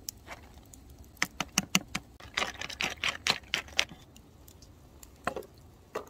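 Quick light clicks and taps in bursts, with a short scratchy rattle about two and a half seconds in and a couple of duller knocks near the end: cooking utensils and containers being handled.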